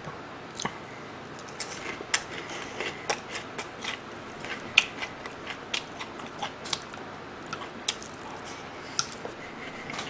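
Close-miked chewing of a mouthful of cream-sauce pork cutlet and rice, with many short, sharp mouth clicks and smacks scattered irregularly, about one or two a second.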